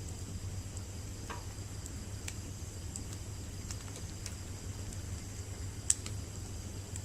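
Wood bonfire crackling with scattered sharp pops, one louder pop about six seconds in, over a steady chorus of night insects.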